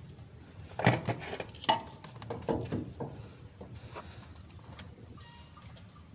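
Irregular clinks, knocks and scrapes of an oil filter and its surroundings being handled as the filter is worked loose by hand, loudest about a second in and tapering off after about four seconds.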